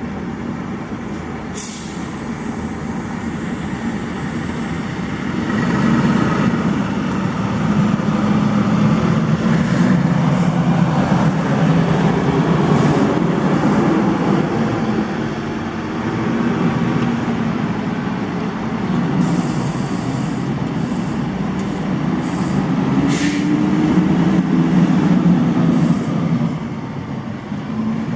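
Fire truck's heavy diesel engine running, its pitch wavering up and down and getting louder about six seconds in, with a few short sharp clicks or hisses in the second half.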